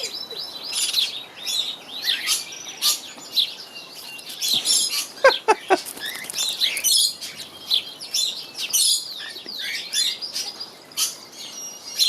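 Many aviary birds, cockatiels among them, chirping and calling continuously. About five seconds in, a quick run of four sharp taps stands out as the loudest sound.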